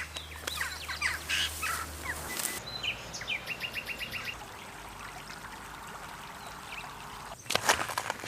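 Small songbirds chirping and twittering, with a quick run of about eight even notes near the middle. A burst of sharp crackling knocks comes near the end.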